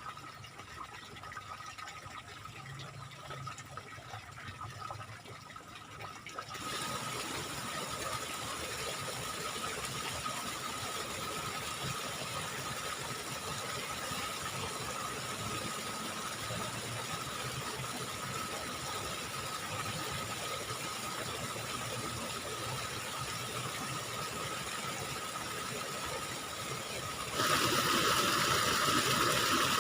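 Steady rush of flowing water in a small ditch. It gets abruptly louder about six seconds in and again near the end.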